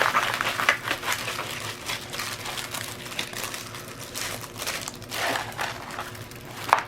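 Plastic packaging of a diamond painting kit rustling and crinkling in irregular bursts as it is handled and opened.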